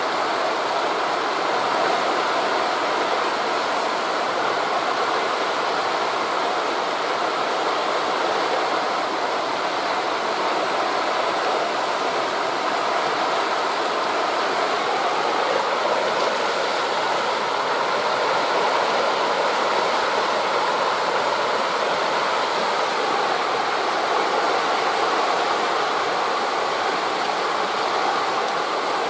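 Wind rushing through the forest trees mixed with the wash of sea waves, a steady, even noise.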